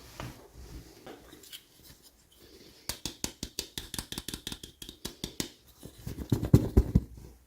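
Hands opening toy packaging. A rapid run of sharp clicks starts about three seconds in, followed by a few heavier knocks near the end.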